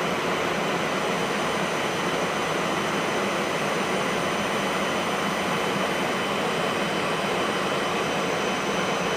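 B-52 bomber's jet engines running steadily: a constant rushing noise with several thin, high whining tones over it.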